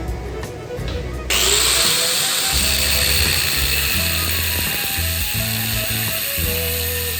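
A power tool working metal starts abruptly about a second in and runs steadily with a harsh hiss, over background music.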